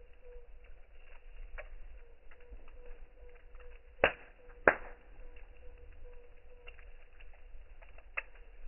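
Campfire crackling, with scattered small pops and two loud snaps about four seconds in, half a second apart, and another snap near the end. A low wind rumble runs underneath.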